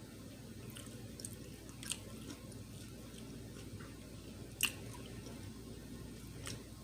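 Close-miked chewing and wet mouth clicks of a person eating, with scattered short clicks, the sharpest a little before five seconds in, over a steady low hum.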